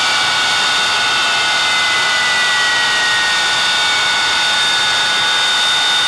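Avro Vulcan's Rolls-Royce Olympus turbojets running, a steady loud roar with high whining tones over it, one of which slowly falls in pitch.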